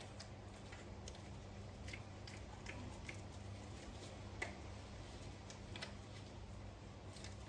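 Faint, scattered clicks and light taps of small bicycle-pedal parts being handled while they are cleaned of old grease, over a steady low hum. The sharpest click comes a little over halfway through.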